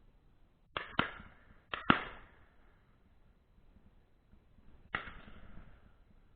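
Shotguns firing at a distance, five shots in all: two quick pairs about a second in, then a single shot about five seconds in, each with a short echo trailing off.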